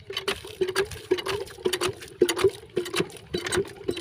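A quick, uneven series of knocks, about two to three a second, each with a short ringing tone.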